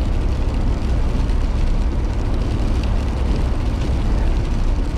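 Steady low rumble of a car being driven slowly over a snowy, sleety road, heard from inside the cabin: engine and tyre noise.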